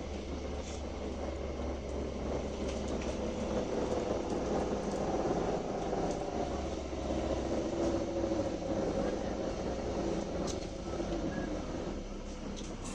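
Volvo B7RLE bus running as it slows down, with a weird drifting whine over the engine and road noise that builds towards the middle and eases off near the end.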